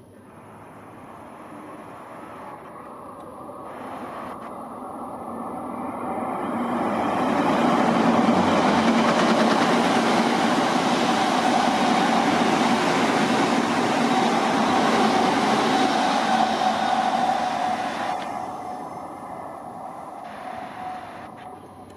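Odakyu 3000 series electric commuter train running through the station: the rush of wheels on rail builds over several seconds, stays loud for about ten seconds as the cars go by, with a steady hum under it, then fades as the train moves off.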